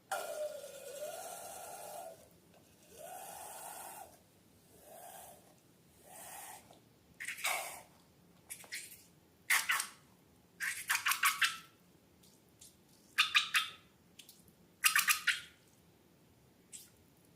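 Balloon slime-making handling sounds: several short hissing rushes in the first six seconds, then bursts of sticky, crackling squishes from about seven seconds in.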